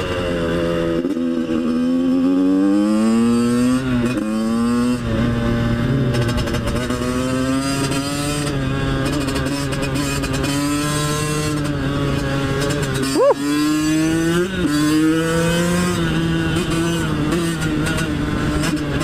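Two-stroke dirt bike engine under way, its pitch repeatedly climbing and dropping back as it revs through the gears. About two-thirds through there is a quick sharp rev up and down.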